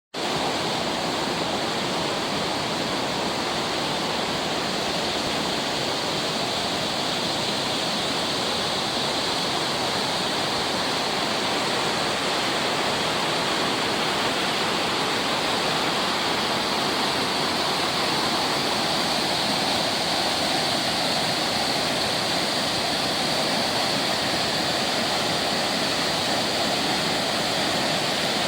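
Ryujin Falls waterfall: the steady, unbroken rush of falling water.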